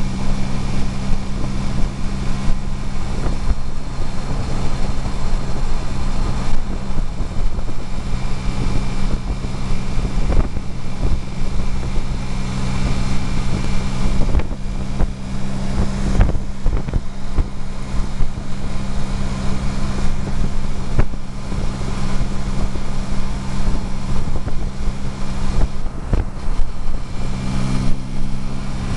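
A classic open roadster's engine droning steadily at highway cruising speed, a constant low hum with no change in pitch, with wind buffeting the microphone in the open cockpit.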